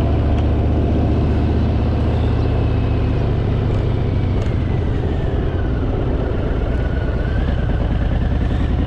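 Harley-Davidson Fat Boy's V-twin engine running steadily under the rider, a low even drone with some wind and road noise over it.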